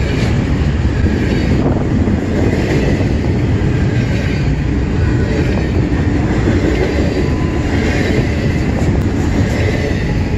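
Double-stack intermodal freight train's well cars rolling past close by: a loud, steady rumble and rattle of steel wheels on the rails.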